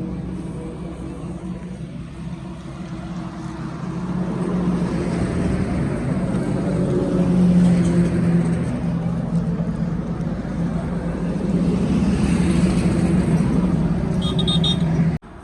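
An engine running steadily, its pitch drifting slightly up and down; it cuts off abruptly just before the end.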